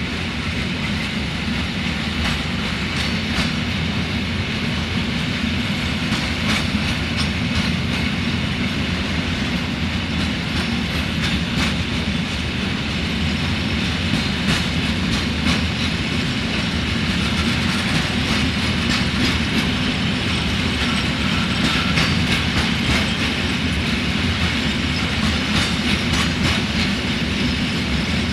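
Freight train of covered goods wagons rolling past: a steady rumble of steel wheels on rail, with repeated irregular clicks and clatter as the wheels run over rail joints.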